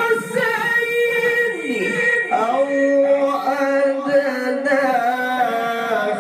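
A male Qur'an reciter's voice in melodic tilawah, drawing out one long ornamented note. About two and a half seconds in, it drops to a lower pitch and holds there.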